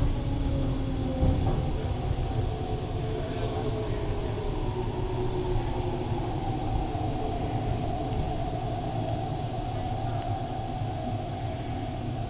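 In-car running noise of an MTR R-Train electric multiple unit: a steady low rumble of wheels on track under a traction-motor whine made of several tones that drift slightly lower in pitch, as the train eases its speed.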